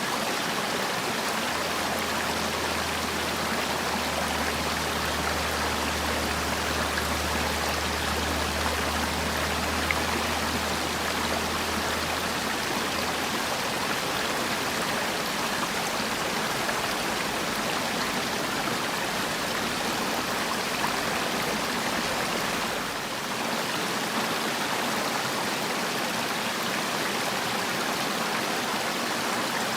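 Valley stream water rushing steadily, an even hiss of flowing water. A faint low hum sits under it for the first dozen seconds.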